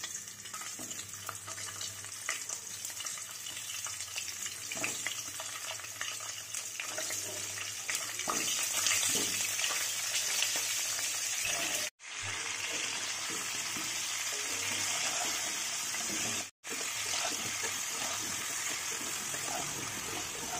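Cauliflower florets sizzling steadily as they fry in hot oil in a non-stick kadai, with occasional knocks as florets go into the pan and a metal spatula turns them. The sound cuts out for a moment twice.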